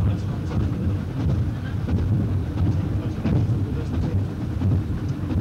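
A train running along the line, heard from its front cab: a steady low rumble of engine and wheels on the rails, with scattered faint clicks.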